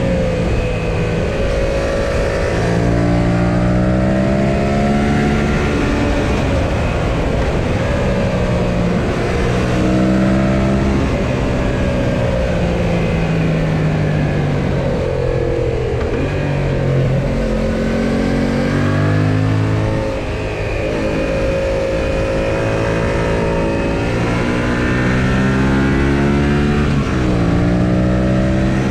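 Yamaha XSR700 parallel-twin motorcycle engine under way: the engine note climbs with the revs and drops back at each gear change, several times over, with a steady rush of wind noise underneath.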